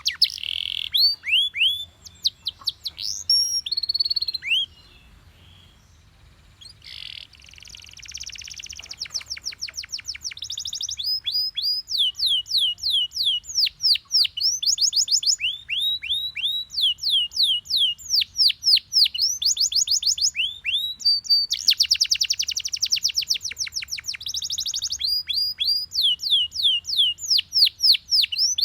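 A Belgian canary singing a long song of fast, high rolls: runs of quick downward-sweeping notes repeated many times a second, broken by a short pause about five seconds in, with harsher buzzy passages mixed in.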